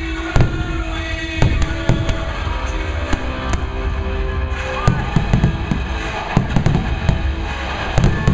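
Fireworks shells bursting overhead, about a dozen sharp bangs, some single and some in quick clusters, over loud music.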